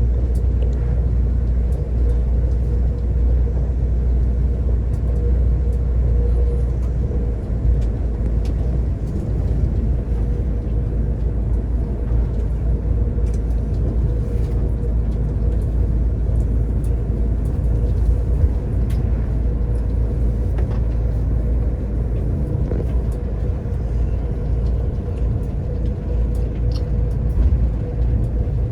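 Passenger train running, heard from inside the carriage: a steady low rumble with a faint constant hum and occasional light clicks.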